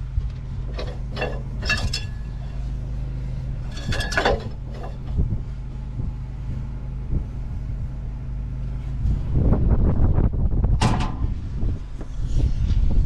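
Engine of a piece of harvest machinery running with a steady low hum, with a few sharp metallic clinks in the first few seconds. It grows louder and rougher near the end.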